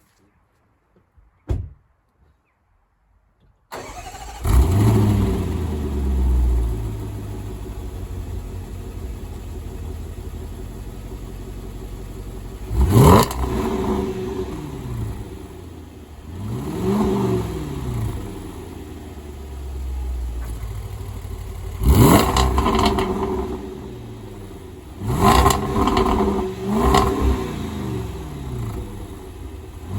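2021 Range Rover Sport SVR's supercharged 5.0-litre V8 starting after a short click, flaring up and then settling to idle. Its exhaust is then revved five times, each rev rising and falling back to idle.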